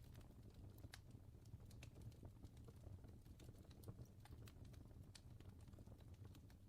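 Faint crackling fire: irregular sharp snaps and pops over a steady low rumble.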